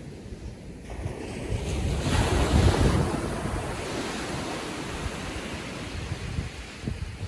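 Atlantic surf on calm seas: a wave breaks and washes up the beach, swelling about two seconds in and then easing to a steady wash. Wind buffets the microphone.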